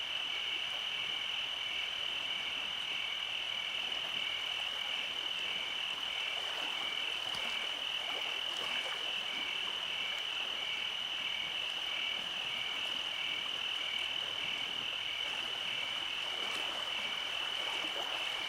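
Night chorus of frogs: a continuous high trill with a second call pulsing steadily just below it.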